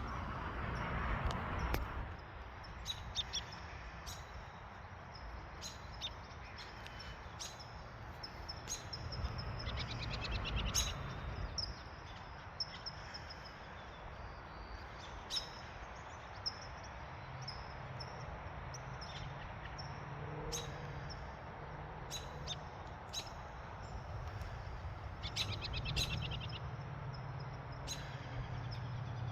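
Songbirds chirping and calling: many short, high chirps scattered throughout, with a rapid trill about ten seconds in and another near the end, over a low steady background rumble.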